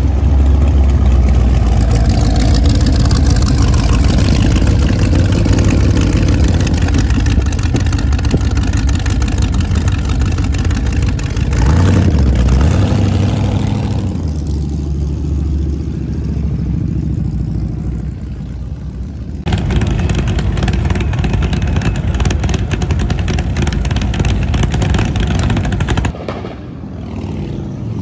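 Motorcycle engines running and revving loudly as bikes ride past one after another, the sound changing as each bike comes and goes.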